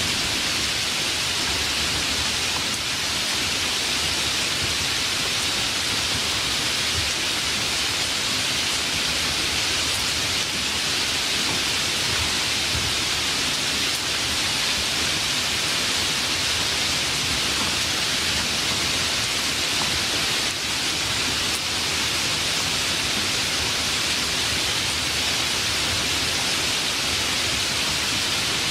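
Rain falling steadily in a rainstorm: an even, unbroken hiss.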